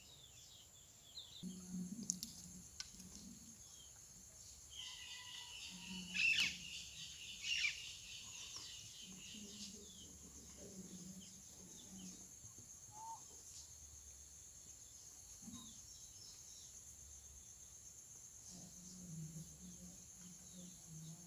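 Faint birds chirping in the background, with a few louder chirps about six and seven and a half seconds in.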